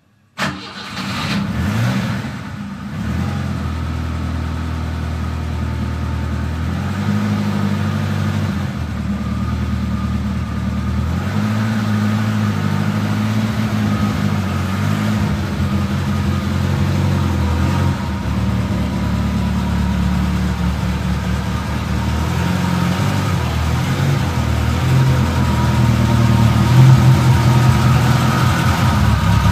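BMW E21 315's four-cylinder petrol engine cold-starting just after the start, then running at an unsteady idle whose pitch shifts up and down as the car creeps forward, growing louder as it draws near near the end.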